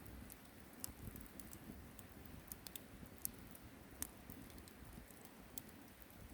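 Wood campfire crackling faintly: scattered small snaps and pops over a low, steady rumble.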